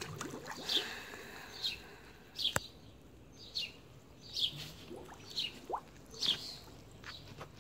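A small bird chirping over and over, short falling notes about once a second, against a quiet background. One sharp click comes about two and a half seconds in.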